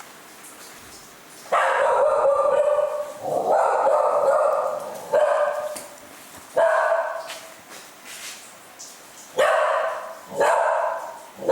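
A dog alarm-barking, repeatedly, at something it has noticed. The barks come in about six loud, separate bouts, beginning about a second and a half in.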